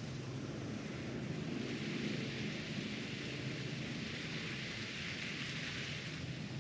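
Garden hose spraying water onto plants and ground, a steady hiss of spray with a low rumble underneath.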